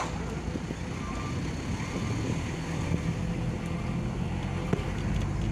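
A coal truck's engine running steadily, a continuous low drone, with a sharp click right at the start.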